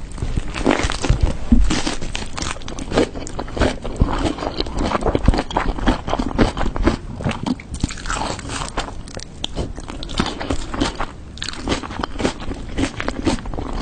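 Close-miked eating sounds: a person biting and chewing crunchy food, a dense run of crackling crunches with wet chewing between.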